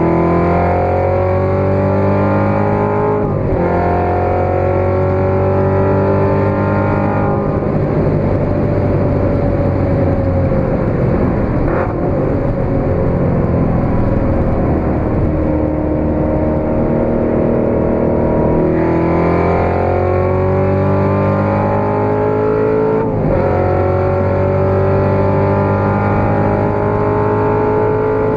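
Supercharged 6.2-litre LT4 V8 of a tuned Corvette C7 Z06 with a Capristo exhaust, accelerating hard at speed. Its pitch climbs and breaks at upshifts about three and seven seconds in, holds nearly steady for about ten seconds, then climbs again through another upshift near the end.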